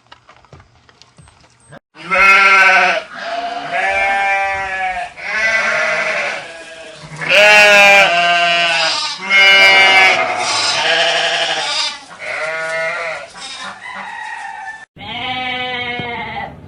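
Bleating livestock: a run of about eight or nine wavering bleats of varied pitch, starting about two seconds in, as from several animals, with one more bleat after a sudden break near the end.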